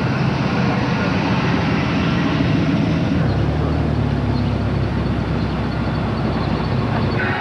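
A vehicle engine running with a steady low hum, which shifts lower about three seconds in.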